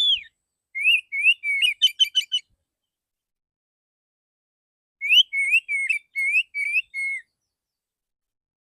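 Male oriental magpie-robin singing two short phrases of rapid, sliding whistled notes, each lasting about two seconds, with a pause of a few seconds between.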